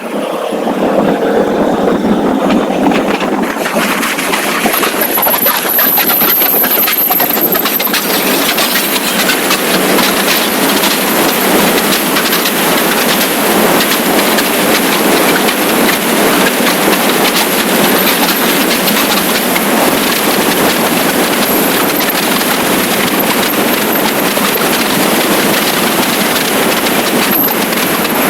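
Loud, steady rush of wind buffeting the camera microphone on a moving motorcycle, with rough road and engine noise underneath. It swells about a second in and then holds.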